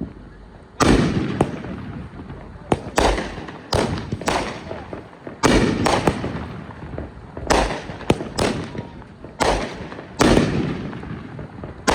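Consumer fireworks going off in a rapid string of sharp bangs, about one to two a second, each followed by a short echoing decay.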